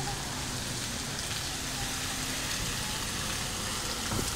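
Steady rain falling on wet pavement, an even hiss, with a faint low hum underneath.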